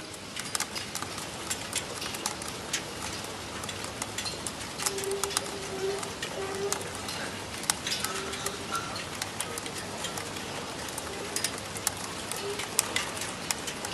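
Rain falling, with irregular drops tapping sharply on a nearby surface. A few short low hoots sound through it, mostly in the middle of the stretch.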